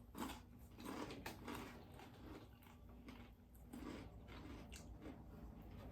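Faint chewing and crunching of crispy fried chicken and bacon lettuce wraps: irregular small crackles and mouth sounds.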